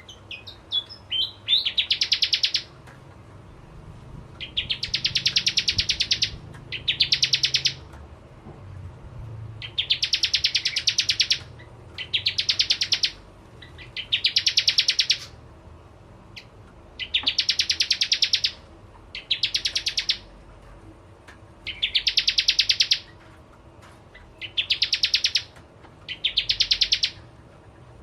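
Bar-winged prinia (prenjak jawa) singing: loud, fast rattling trills, each about a second long, repeated every couple of seconds, with a few short chirps near the start.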